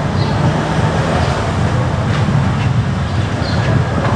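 Steady road and engine noise of a car driving: a continuous low rumble with tyre hiss above it.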